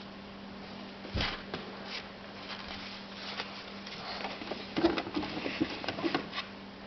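Plastic dollhouse pieces and a doll being handled: scattered light clicks and taps, a sharper knock about a second in and a cluster of taps near the end, over a faint steady low hum.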